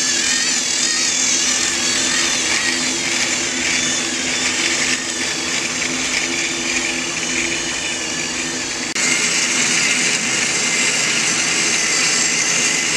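Small electric motor of a battery-powered Trackmaster toy train engine whirring steadily as it runs the track, with a high whine that wavers in pitch. The sound shifts abruptly about nine seconds in.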